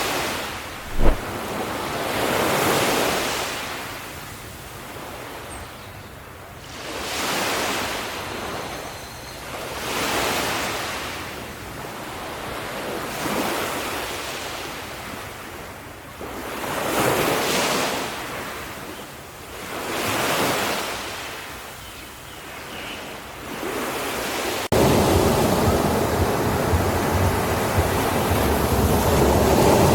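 Ocean waves breaking on a beach, the surf swelling and fading about every three to four seconds, with a short sharp knock about a second in. Near the end it changes abruptly to a louder, steadier rush of surf with a low rumble.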